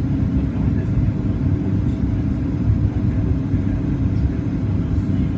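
Steady low rumble inside the cabin of a Boeing 737 MAX 8-200 in flight: the noise of its CFM LEAP-1B engines and the airflow over the fuselage, with a faint steady hum.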